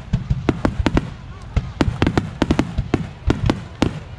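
Fireworks shells bursting in quick, irregular succession: a dense string of sharp bangs, several a second, over a continuous low rumble.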